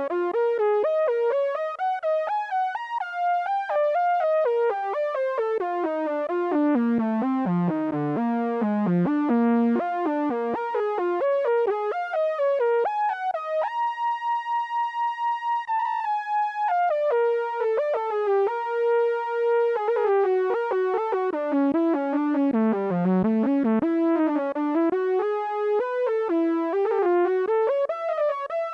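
Behringer Odyssey analog synthesizer playing fast runs of notes that sweep down and back up in pitch, with a held high note about halfway through and a lower held note just after, before the quick runs resume.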